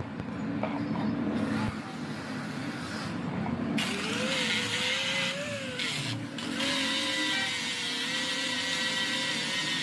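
An electric power tool running and working against metal. From about four seconds in, a harsh grinding hiss comes in and the motor's pitch dips and recovers as it is loaded.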